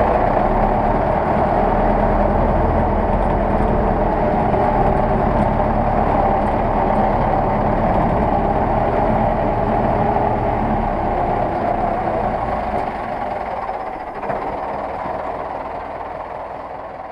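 Zetor 6911 tractor's four-cylinder diesel engine running steadily, growing fainter over the last few seconds.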